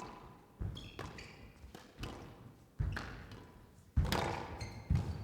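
Squash ball being struck by rackets and hitting the court walls in a rally, a hard hit every second or so, the loudest about four seconds in. Court shoes squeak briefly on the floor between the shots.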